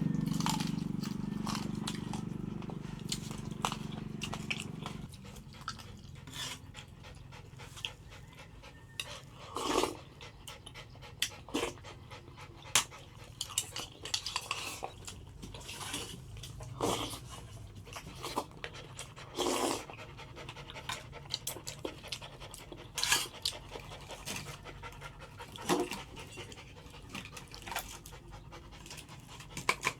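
A Dalmatian panting, among short irregular sounds. A low hum at the start fades and stops about five seconds in.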